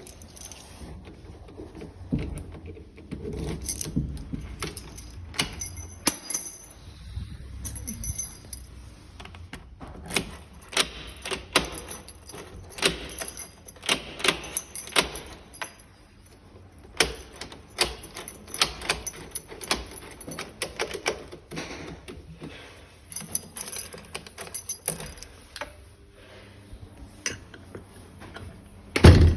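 Metal keys and small metal parts clicking and clinking irregularly as they are handled in locksmith work, ending in one louder knock.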